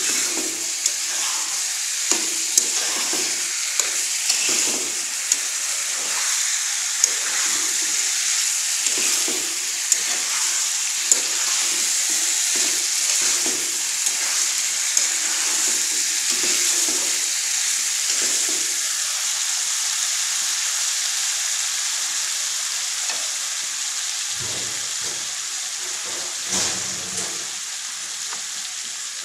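Broiler chicken pieces and fried potatoes sizzling in oil and spice paste as they are stir-fried down (kosha) in a pot. A metal spatula stirs them throughout, with many sharp scrapes and taps on the pan, and a few duller knocks near the end.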